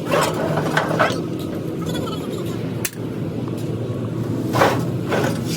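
A motor running steadily with a low hum, with a few short hissing bursts and a sharp click about three seconds in.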